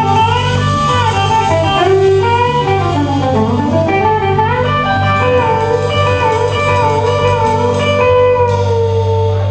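Blues band playing an instrumental passage: a lead guitar plays bending, wavering notes over a steady low bass note, settling into one long held note near the end.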